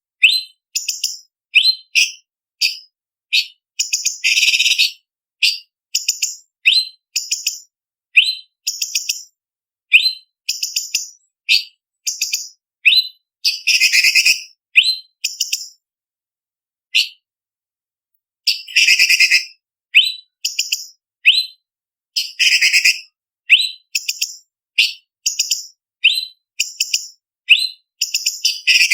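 Orange-bellied leafbird (cucak cungkok) singing: quick series of short, high, sharp whistled phrases repeated over and over, broken by a few longer harsh, rattling phrases, with a brief silence about two-thirds through.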